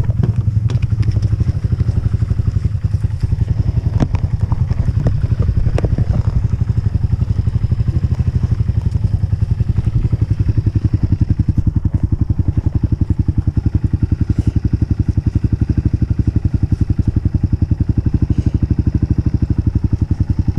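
Honda CRF125F dirt bike's single-cylinder four-stroke engine idling steadily at an even beat, with a few light clicks in the first several seconds.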